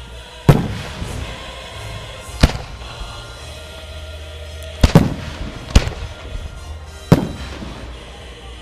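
Aerial firework shells bursting overhead: six sharp bangs spaced a second or two apart, two of them almost together about five seconds in, the louder ones trailing off in an echo.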